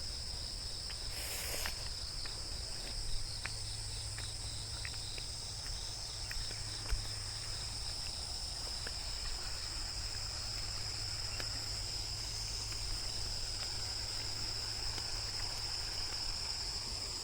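Steady high-pitched chorus of insects, crickets or cicadas, droning without a break, with a brief rustle about a second and a half in and a few faint clicks.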